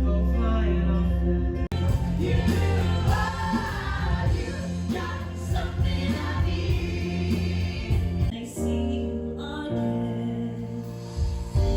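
Live stage-show music with singing, the voices sounding choir-like over a steady bass; it changes abruptly twice, about two seconds in and again past the middle, as one song passage cuts to another.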